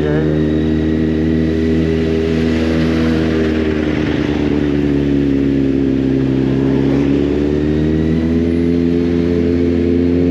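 Kawasaki Z800's inline-four engine running at low, fairly steady revs as the motorcycle filters slowly through traffic; its pitch dips slightly in the middle and rises again near the end.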